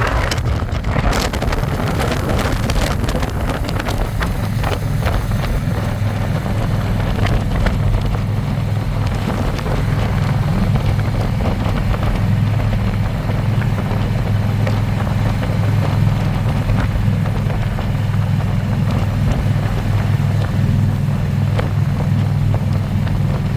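Harley-Davidson Electra Glide's V-twin engine running steadily as the motorcycle cruises, heard from the pillion seat, with wind rushing over the microphone, heaviest in the first few seconds.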